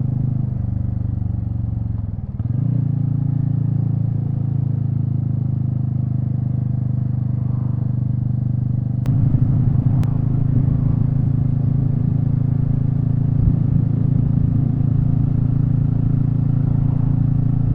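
Royal Enfield Meteor 350's single-cylinder engine running at low road speed. Its pitch falls about two seconds in as the bike slows, then holds steady, and the engine gets a little louder from about halfway through, with two sharp clicks at that point.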